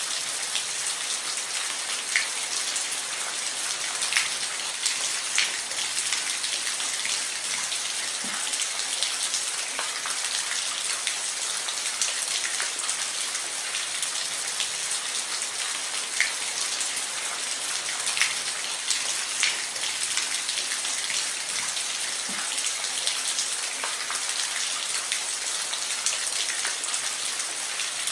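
Steady rain falling on a roof: an even hiss with individual drops ticking sharply here and there.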